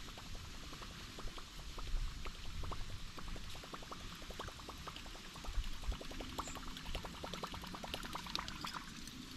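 Water lapping and trickling against a kayak's hull: a run of small, irregular splashy ticks over a faint low rumble.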